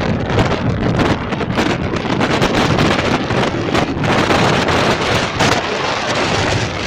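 Strong gusty wind buffeting the microphone, a loud continuous rumbling roar that swells and dips without a break.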